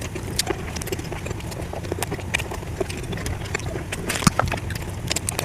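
A person eating a mouthful of rice and fish curry close to the microphone: chewing with irregular wet smacks and clicks of the mouth, over a steady low hum.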